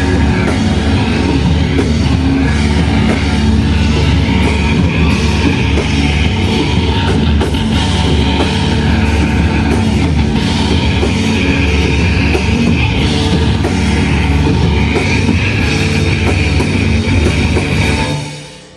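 A shoegaze rock band playing live, with dense, loud guitars and drums. The music stops abruptly near the end, as the song ends.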